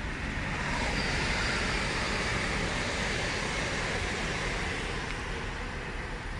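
Passenger train passing through the station on the far line, a steady rush of wheel and rail noise that swells about a second in and holds, with a brief faint high whine as it builds.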